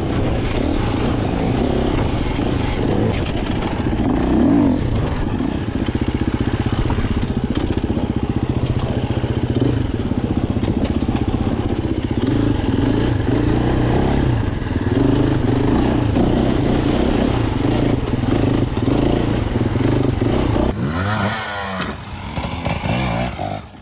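KTM EXC enduro dirt bike engines running and revving, the pitch rising and falling. About 21 s in, a bike's pitch sweeps sharply as it passes close by.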